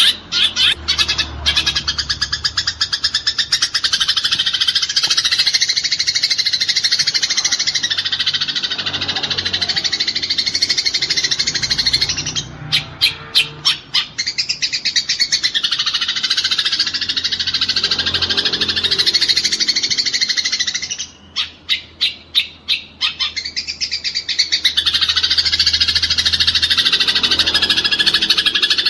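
Eurasian tree sparrows chattering fast in a fight: dense, rapid chirping, broken twice, near the middle and about two-thirds through, by runs of separate loud chirps at about seven a second.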